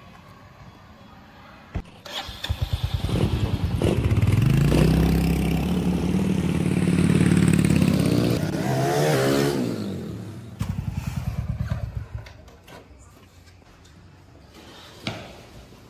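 Royal Enfield motorcycle engine started about two seconds in, first running with an even pulsing beat, then revving hard as the bike pulls away, the pitch falling off before it settles back to pulsing. It fades down, with a single knock near the end.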